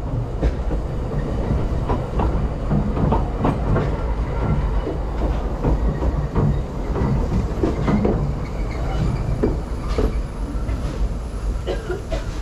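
Narrow gauge railway carriage running along the track: a steady low rumble with irregular clicks and knocks from the wheels and couplings.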